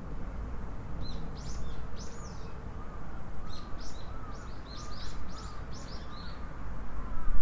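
Small birds chirping in quick series of short high calls, over a steady low rumble of outdoor background noise.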